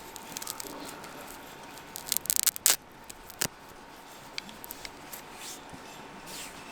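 Sharp handling clicks and crackles, bunched together about two seconds in, with a single louder click a moment later and a few light ticks after.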